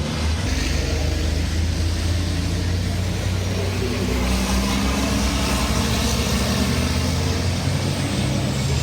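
Heavy truck engine running steadily at a low, even speed, a deep rumble with no change in pitch.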